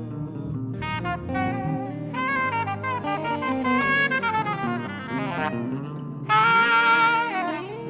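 Saxophone playing a melodic line with sliding notes over a band accompaniment, swelling into a loud held note about six seconds in.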